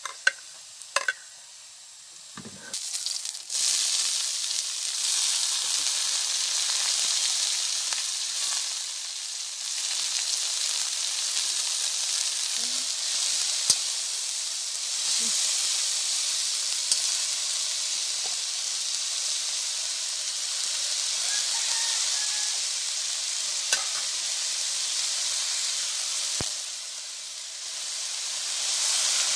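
Onions and garlic frying in oil in a wok, with a few clicks of a metal spoon against the pan. About three and a half seconds in, a loud, steady sizzle starts as the fern leaves hit the hot oil and are stirred, with occasional sharp clacks of the spoon on the wok. The sizzle dips briefly near the end, then swells again as soy sauce is poured over the greens.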